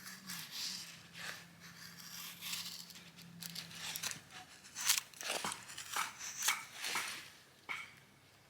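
Irregular snipping, rustling and crinkling from hands at work preparing food, a series of short sharp clicks and crackles. A faint steady low hum runs under the first half and stops about four seconds in.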